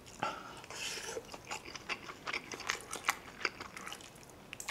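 Close-up chewing of spicy kimchi fried rice: irregular wet mouth clicks and soft crunches, with light clicks of the spoon against the plate.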